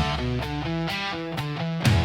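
Rock music: a guitar plays a quick run of single notes, about five a second, with the drums largely out. The full band comes back in near the end.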